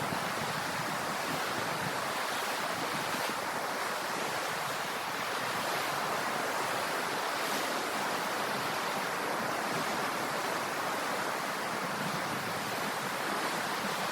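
Ocean surf: a steady wash of waves with no separate breaking crashes standing out.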